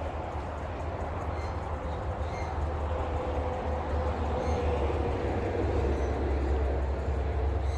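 Steady low rumble of passing traffic, growing a little louder with a faint droning tone from about a third of the way in, with a few faint bird chirps above it.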